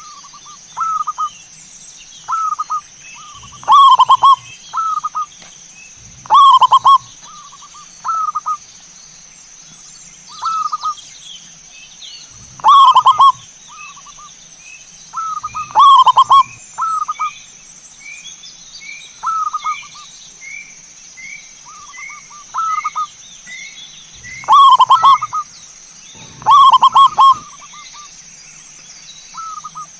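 Zebra doves (perkutut) cooing in repeated short phrases, loud ones and softer ones alternating every second or two. Through the middle a smaller bird chirps quick rising notes about twice a second, over a steady high whine.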